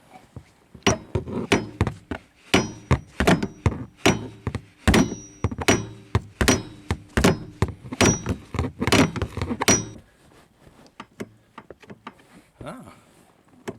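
Hammer blows on metal, about two to three a second for some nine seconds, each with a short metallic ring, knocking at a rust-seized hinge to free it. A few lighter taps follow near the end.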